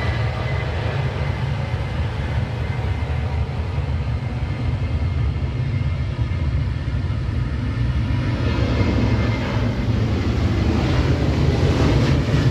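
Jet engines of a Delta Boeing 737-900 at takeoff thrust: a steady, loud low rumble that grows slightly louder, with a faint high whine early on.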